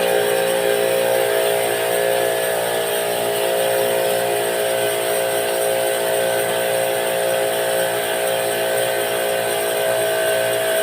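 A motor running steadily: a constant machine hum with several fixed pitched tones under a hiss.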